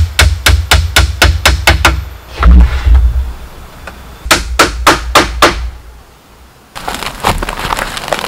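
Hammering: two quick runs of sharp strikes, about four or five a second, with a pause between them. Near the end a steady crackling hiss sets in abruptly.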